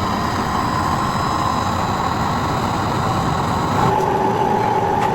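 Factory machinery running loudly and steadily, with a high whine that steps down in pitch about four seconds in.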